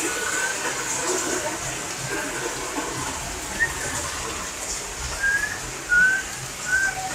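A parrot giving short whistles, a few scattered early and a quicker run of them in the last two seconds, over a steady hiss of monsoon rain.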